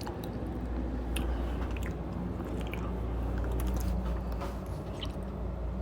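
A person chewing food close to the microphone, with small wet clicks over a steady low hum.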